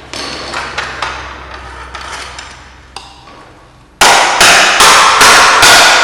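Hammer striking a bent metal garage door opener bracket to straighten it. A few scattered, lighter blows, then about two-thirds through, loud, regular blows about two a second.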